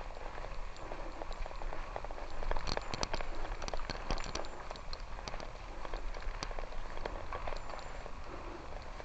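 Loose gravel crunching and popping, a dense run of small irregular clicks over a steady rushing noise, busiest and loudest a few seconds in.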